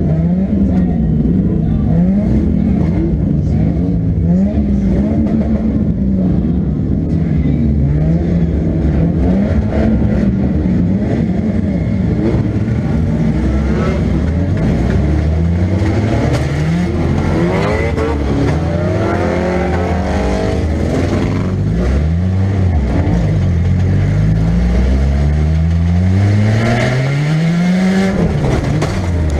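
In-cabin sound of a 1998 Nissan Pulsar 1.8's four-cylinder engine revving up and down over and over under hard driving. In the second half the pitch climbs in repeated steep runs and falls back.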